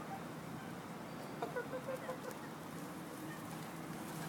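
Birds calling: a short run of quick, low calls about a second and a half in, over a steady low hum.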